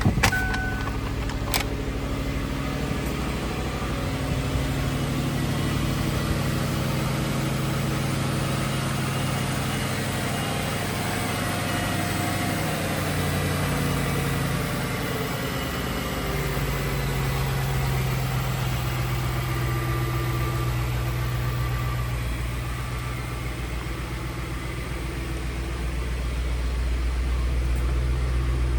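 2005 Ford Thunderbird's 3.9-litre V8 idling steadily, with a single sharp click about a second and a half in.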